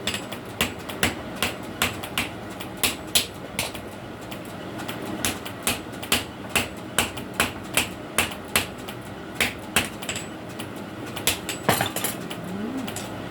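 Blacksmith's hammer striking steel on an anvil while forging a sickle blade: sharp ringing blows at about two to three a second, some lighter than others.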